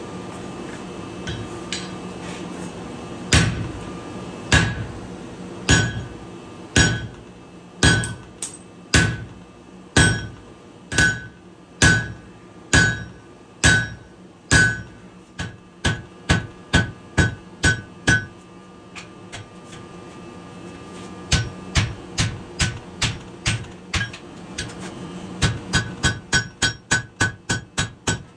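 Hand hammer striking hot leaf-spring steel on an anvil, each blow with a short metallic ring. Blows come about one a second for the first half, quicken to about three a second, pause briefly, then end in a fast run of about four a second.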